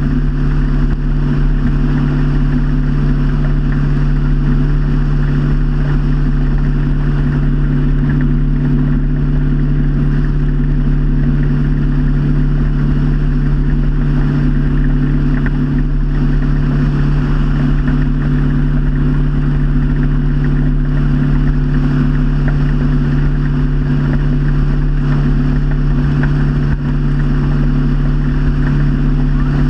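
Motorboat engine running steadily at an unchanging cruising pitch, with a steady hiss over it.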